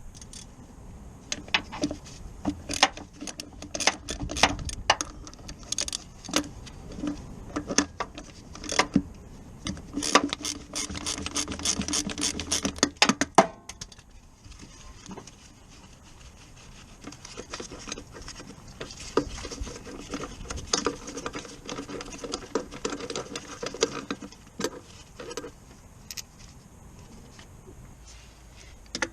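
Metal tools and parts clinking and rattling during work on a car's clutch, in irregular sharp clicks and knocks. About ten seconds in there is a dense run of rapid clicks, and the clicks are sparser after that.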